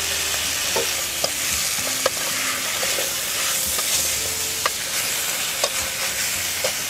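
Meat and diced carrots sizzling in oil in an aluminium pot while a ladle stirs them. The ladle knocks and scrapes against the pot with about half a dozen sharp clicks.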